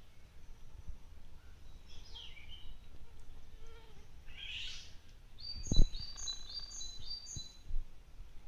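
Songbirds calling: a few falling chirps, then a quick run of about five short, high repeated notes in the second half, over a steady low rumble. A sharp thump a little past halfway is the loudest sound, with a weaker one about a second and a half later.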